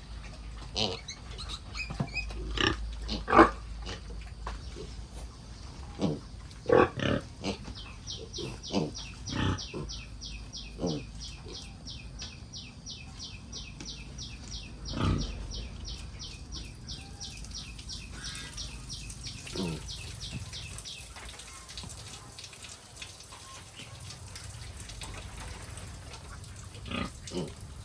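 Pigs, a sow and piglets, giving short loud calls, many of them dropping quickly in pitch. The calls come thick in the first ten seconds, then singly about halfway, a little later, and again near the end. A fast, even high pulsing runs for several seconds in the middle.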